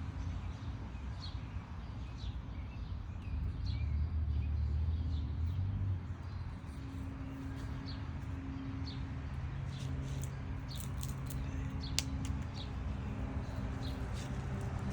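A small bird repeating a short, high chirp about once a second over a steady low hum, with a few sharp clicks near the end.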